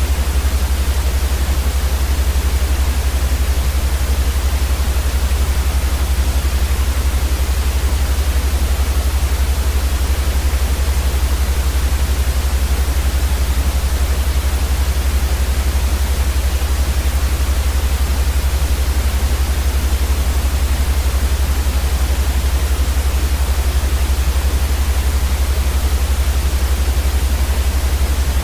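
Steady white noise for sleep: an even hiss across the whole range with a loud, deep rumble underneath, unchanging throughout.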